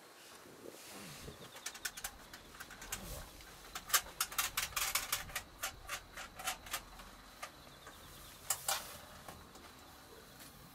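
A quick, irregular run of sharp clicks and taps, thickest midway, with two loud clicks near the end.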